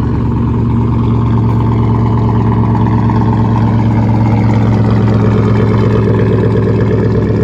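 A 2011 Chevrolet Silverado Z71's 5.3-litre V8 idling steadily in the first half-minute after a cold start.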